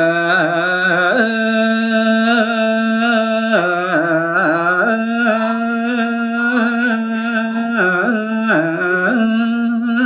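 A male voice singing a Balinese geguritan verse unaccompanied, in slow melismatic tembang style: long held notes with small wavering ornaments and brief dips in pitch between phrases.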